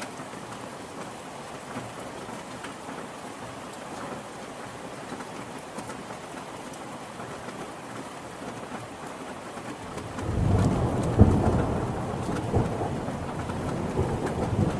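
Steady rain falling, with a roll of thunder that swells in about ten seconds in, with a sharp crack, and rumbles on to the end.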